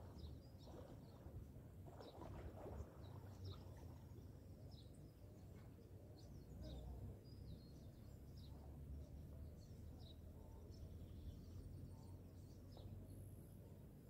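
Faint outdoor ambience: birds giving many short, high chirps here and there over a low, steady rumble.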